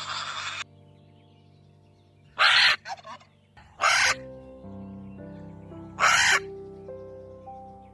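Three short, loud, harsh bird calls, about one and a half to two seconds apart, over soft background music with sustained notes.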